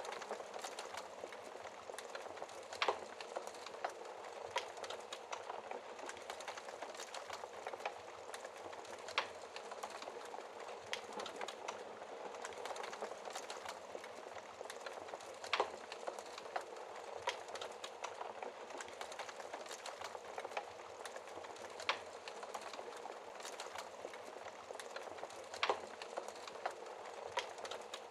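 Wood fire crackling in a fireplace: a steady hiss full of quick small crackles, with a louder pop every several seconds.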